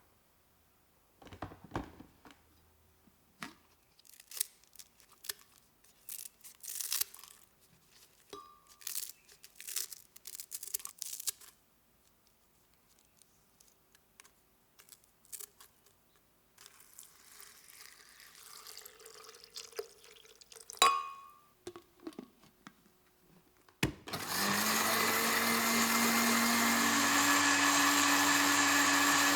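Scattered light clicks and knocks, then about 24 seconds in an electric blender switches on and runs steadily, blending pandan leaves with water into juice.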